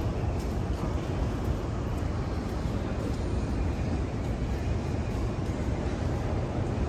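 Steady low rumble of a metro train running.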